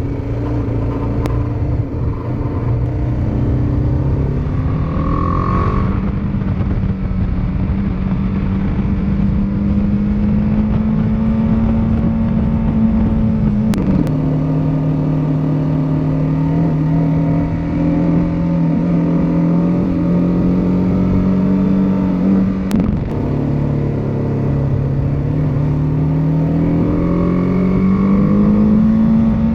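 Motorcycle engine running under way. Its pitch rises as it accelerates, drops sharply twice, about 14 and 23 seconds in, at gear changes, each with a click, then climbs steadily again near the end.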